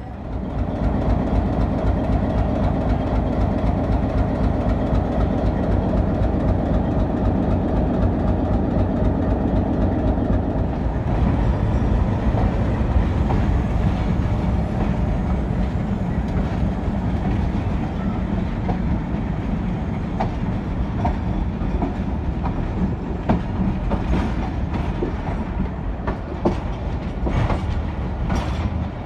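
Passenger train pulling out: a diesel engine's steady hum for the first ten seconds or so, then the rumble of rolling wheels, with sharp clicks over rail joints and points near the end.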